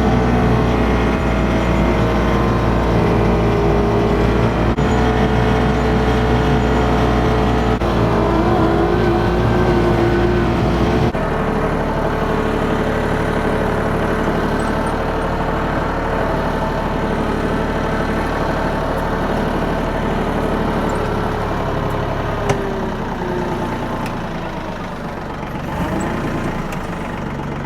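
Bad Boy 4025H compact tractor's diesel engine running steadily at raised throttle, about 2,500 rpm. Its tone shifts once about eleven seconds in, and it eases off near the end.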